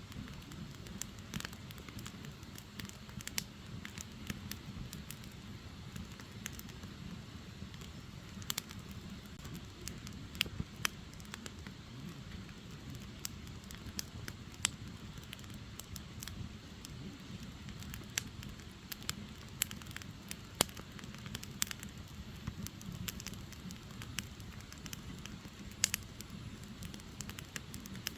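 Firewood burning: irregular sharp crackles and pops, a few louder than the rest, over a low, steady rush of flames.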